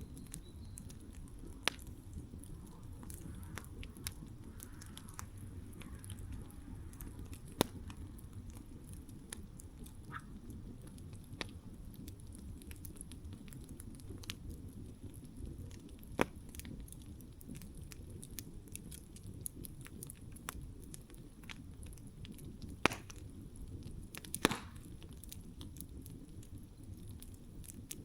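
Wood campfire burning with a steady low rustle of flame and scattered sharp crackles and pops from the burning wood, a few louder pops about a third of the way in and near the end.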